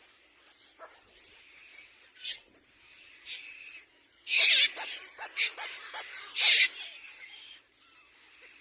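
Little black cormorants at the nest giving harsh, wheezy, rasping calls in short bursts. The two loudest come about four and a half and six and a half seconds in.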